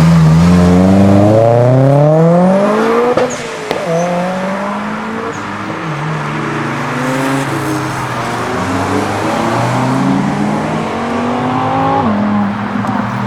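Modified car engine accelerating hard, its pitch climbing steeply for about three seconds and loudest there. It drops off with a few sharp cracks, then climbs again more slowly before falling away near the end.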